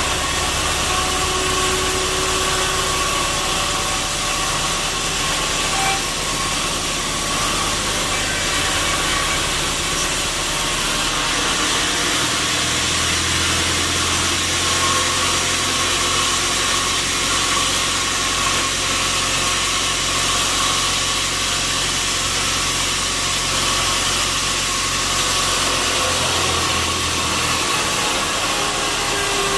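Sawmill machinery running with a steady, noisy drone and a steady whine, over a low engine-like hum that grows fuller about twelve seconds in and eases near the end.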